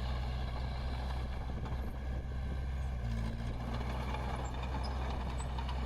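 Diesel engine of heavy earthmoving machinery running steadily at a constant low pitch.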